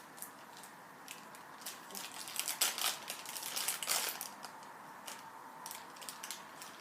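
Plastic packaging crinkling and crackling as a packet is handled and opened. The crackles come in short scattered clicks, densest and loudest about two and a half to four seconds in.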